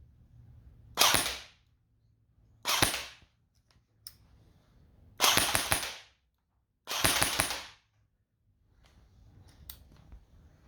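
Electric airsoft rifle firing indoors: two single shots, then two short full-auto strings of rapid shots, each lasting under a second.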